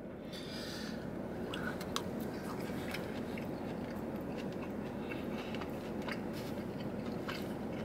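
A person chewing a mouthful of steak from a burrito bowl: faint, irregular mouth clicks over a steady low background hum.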